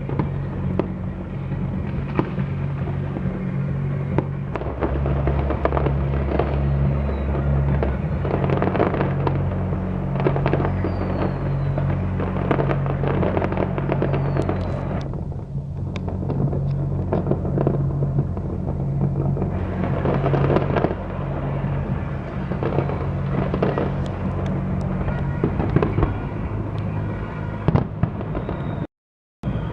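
Fireworks display: dense repeated bangs and crackling bursts with a few short falling whistles, over music with a steady pulsing bass line. The bangs ease off for a few seconds about halfway through, then pick up again.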